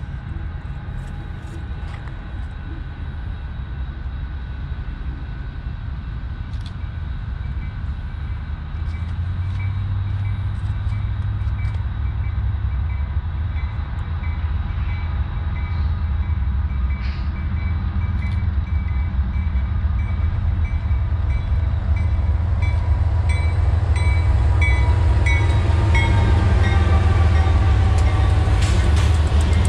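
Approaching BNSF freight train: the low rumble of its diesel locomotives grows steadily louder as it comes closer.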